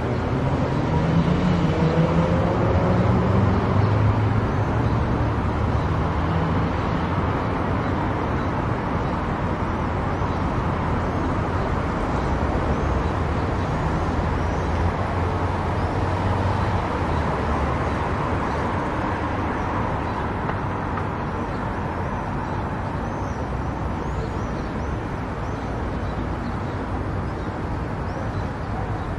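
A car cruising on a highway: steady tyre and road noise with a low engine hum. A rising tone sounds in the first few seconds.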